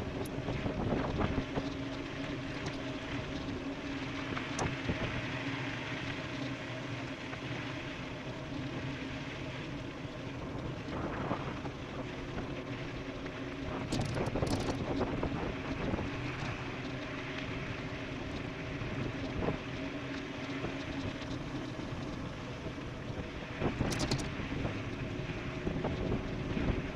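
Wind rushing over the camera microphone, with tyre noise and a steady hum from an e-bike riding fast downhill. A few short sharp knocks come through midway and again near the end.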